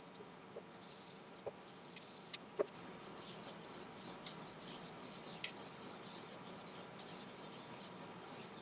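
Cloth rubbing burnishing oil onto the wood of an Iroko platter: a faint steady rub, with a few light clicks in the first three seconds.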